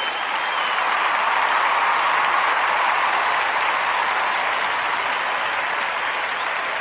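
Crowd applause: a dense, steady wash of clapping that eases off slightly toward the end.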